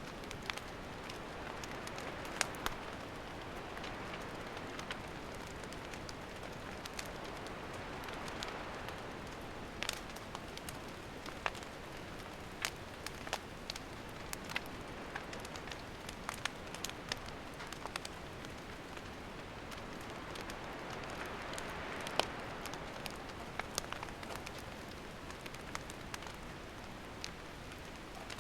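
Wood campfire burning: a steady hiss with irregular sharp crackles and pops, a few of them louder snaps.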